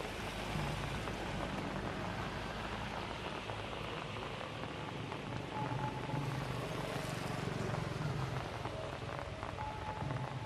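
Light rain falling, a steady patter of drops.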